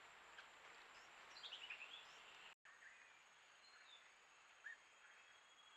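Faint wild bird calls over quiet forest background hiss: a quick run of short chirps about a second and a half in, and a single short note near the end.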